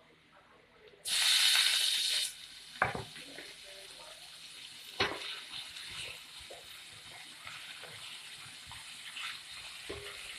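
Ground pork dropped into hot oil with sautéed onion and garlic in a kawali (frying pan): a loud burst of sizzling about a second in, settling into a steady frying sizzle with a few knocks against the pan as it is stirred.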